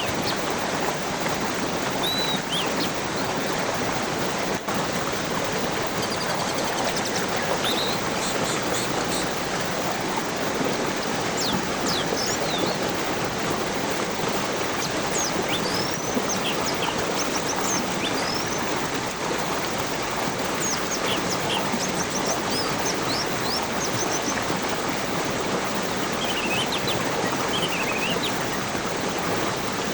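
Steady rush of flowing stream water, with birds chirping and whistling now and then above it in short clusters of calls.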